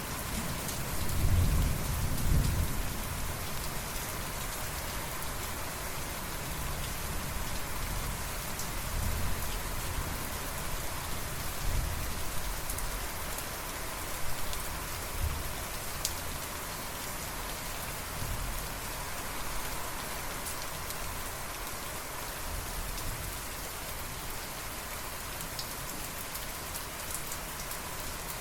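Steady heavy rain falling, with low rolling thunder rumbling underneath, loudest a second or two in and swelling again a few more times.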